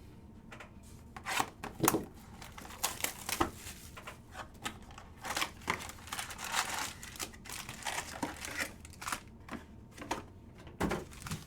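Foil or plastic trading-card pack wrappers crinkling and tearing as packs are ripped open by hand, with scattered small clicks and knocks of handling.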